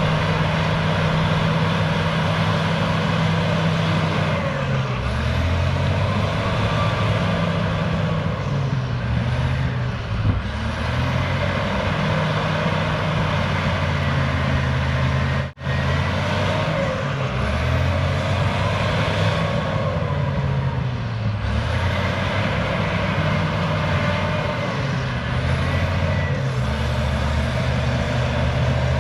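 Cat D6H bulldozer's diesel engine running under varying load, its pitch rising and falling as it works. There is a momentary drop-out about halfway through.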